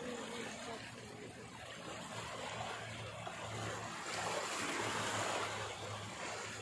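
Water rushing and swishing, swelling about four seconds in, over a low steady hum.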